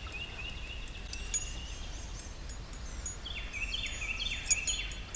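A bird singing faintly: short whistled notes, then a quick run of falling notes from about three seconds in, over a low steady wind rumble.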